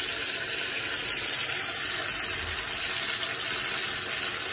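Chicken pieces frying in bubbling oil in a wok: a steady sizzle with a few faint crackles.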